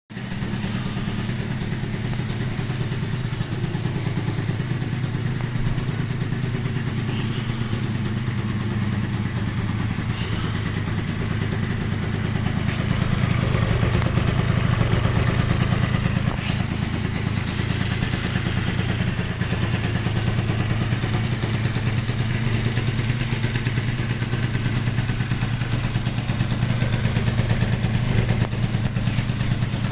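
Honda Dio scooter engine running steadily at idle, with a faint high whine over it; it runs a little louder from about halfway through.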